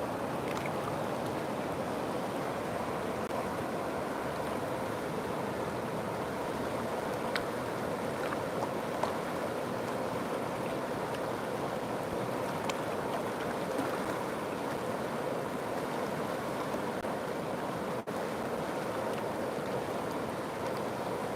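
River water flowing steadily, a continuous rushing babble with a few faint small splashes or drips.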